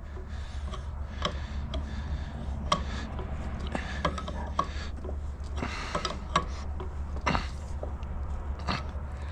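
Irregular clicks, taps and clinks of small parts and hand tools being handled, the sharpest a little under 3 s in and twice between 6 and 7.5 s, over a steady low hum.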